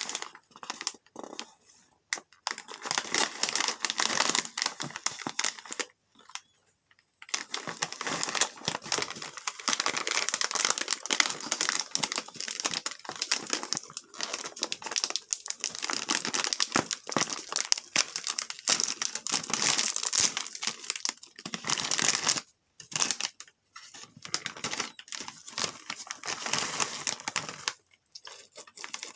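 Plastic potato-chip snack bag crinkling as it is handled, in long stretches of crackling broken by a few short pauses.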